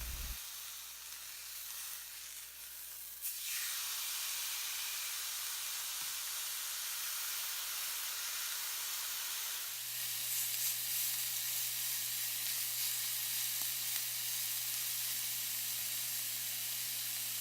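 Beef steak sizzling steadily as it cooks, the sizzle growing louder about three seconds in.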